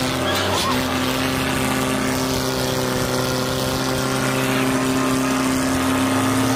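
Diesel tractor engine running at a steady speed.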